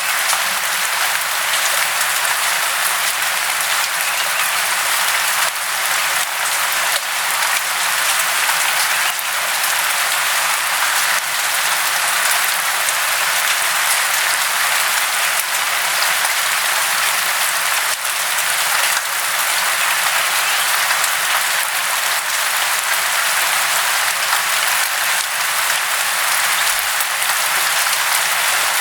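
Steady, dense hiss of falling water splashing, with a fine crackle.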